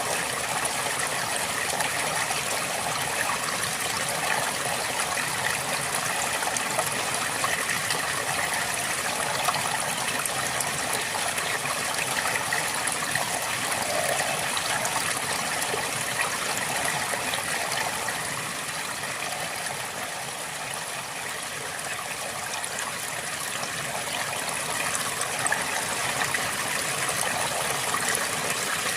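River water flowing and babbling steadily, a little softer for a few seconds past the middle.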